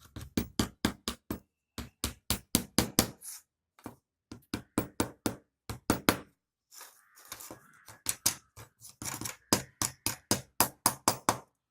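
A large hammer tapping rapidly on the tips of staples that came through a wooden frame's corner, bending them over flat. The blows come at about four a second in three runs with short pauses between.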